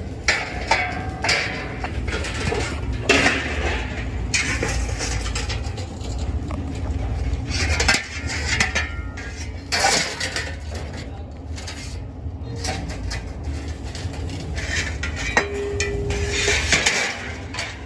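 Metal parts clanking, knocking and scraping at irregular moments over a steady low drone, as in sheet-steel fabrication work.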